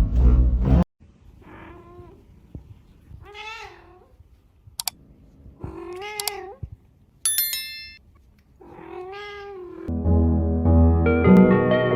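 A cat meowing four times, spaced a few seconds apart, each call rising and then falling in pitch; the first is faint. A short high-pitched sound comes between the third and fourth meows, and background music stops just under a second in and returns about ten seconds in.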